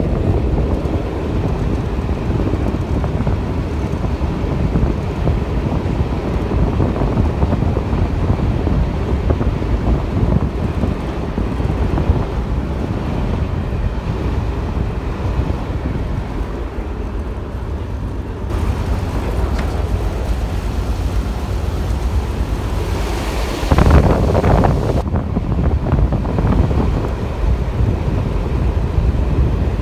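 Wind buffeting the microphone held out of the window of a moving Class 121 diesel railcar, over the train's running noise from its underfloor diesel engines and wheels on the track. The noise steps up about two thirds of the way through, with a louder rush lasting a second or two soon after.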